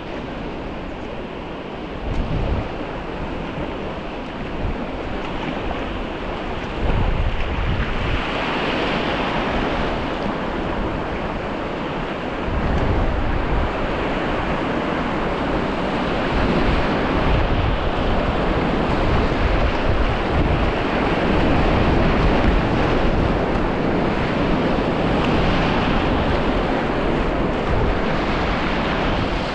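River water rushing through rapids in a steady rush of whitewater noise that grows louder about a third of the way in, with wind buffeting the microphone.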